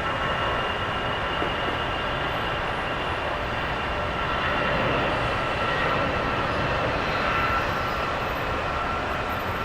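Jet airliner engines running: a steady rush of noise with a thin high whine over it, growing a little louder in the middle and easing off toward the end.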